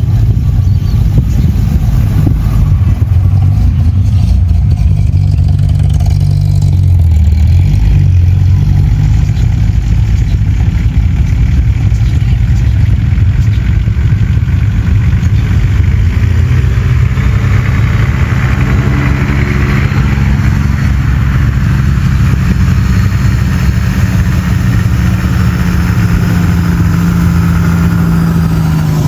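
Classic car engines running loud and low as cars pull out and drive off. The engine note shifts and revs up a few seconds in, then settles into a steady low note for the second half.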